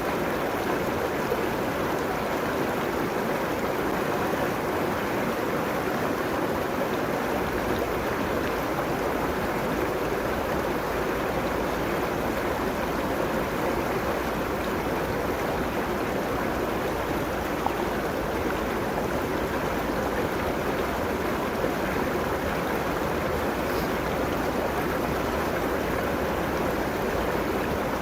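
River water flowing over its bed in a steady, even rush.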